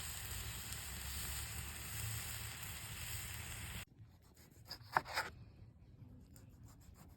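Food sizzling in a hot pan: a steady hiss that cuts off abruptly about four seconds in, followed by a few faint clicks and rubbing sounds.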